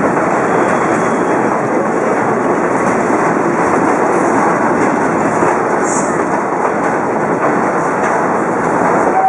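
Passenger train coaches rolling slowly past at close range over a steel truss railway bridge, wheels running steadily on the rails.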